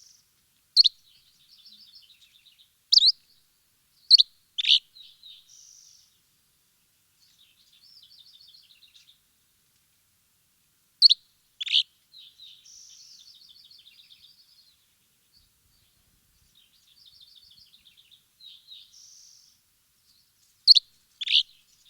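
Birds chirping: loud, sharp downward-sweeping chirps, often in pairs about half a second apart, recurring every few seconds, with softer rapid twittering trills between them.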